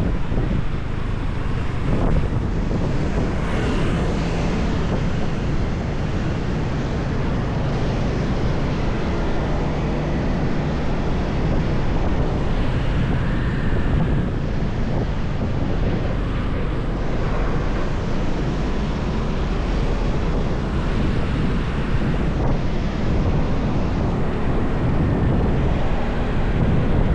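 Motorbike riding: steady wind rushing over the microphone, over the low rumble of the engine and road noise.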